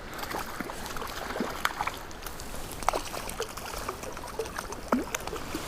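Water splashing and dripping in irregular small bursts as a small hooked rainbow trout is brought in, over the steady flow of a trout stream.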